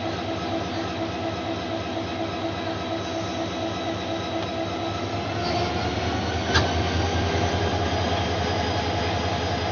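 Train running on the rails: a steady rumble with faint steady tones, one sharp clack about two-thirds of the way through, after which the low rumble grows stronger.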